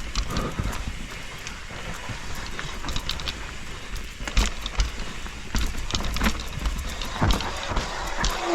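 BCF enduro mountain bike riding down a wet, rocky trail: tyres rolling and rumbling over the ground, with frequent sharp clattering knocks from the bike as it hits rocks and roots.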